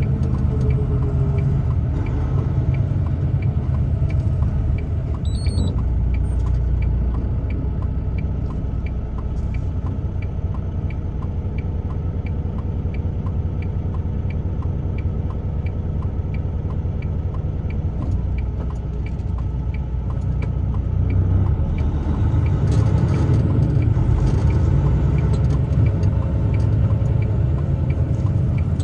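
Truck engine and road rumble, steady and low, heard from inside the cab. Over it comes a steady light ticking, about one and a half ticks a second, typical of a turn-signal indicator flashing, following a prompt to turn right at the traffic light. A brief high beep sounds about five seconds in.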